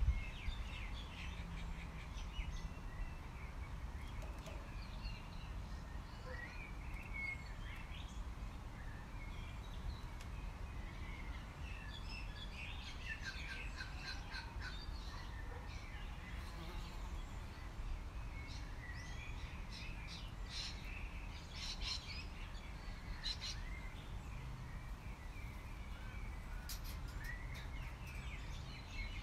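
Wild birds chirping and calling in scattered short bursts, busiest in the middle and near the end, over a steady low background rumble.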